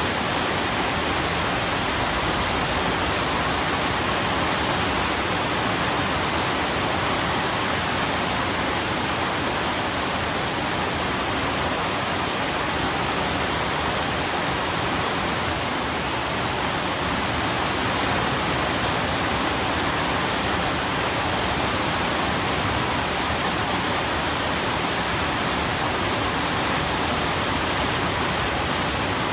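Steady rain: an even, unbroken hiss with no separate drops or changes.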